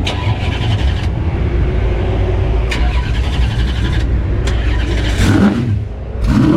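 Drag-race car engine running loud and close, a heavy steady rumble with a few short surges in pitch and loudness near the end.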